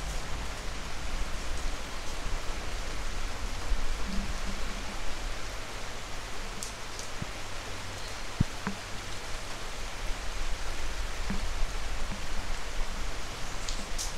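Steady rain falling: an even hiss with a few scattered drop taps.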